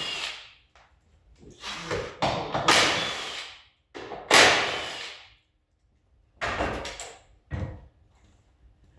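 Car parts knocking and clattering as they are pulled off and handled, in about five loud bursts, each a second or less long.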